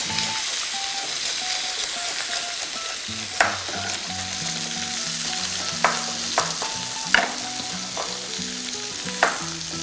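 Chicken pieces sizzling steadily in a hot pan, searing to a brown crust. About five sharp knife strokes on a chopping board as fennel is sliced, spread through the second half.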